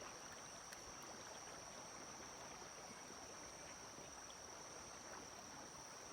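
Faint outdoor ambience: a steady, high-pitched insect drone over a soft, even hiss of flowing stream water.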